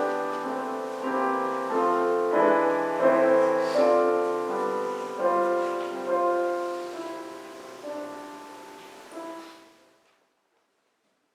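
Slow, quiet solo piano music, single notes and chords that ring and die away, fading out and stopping about ten seconds in.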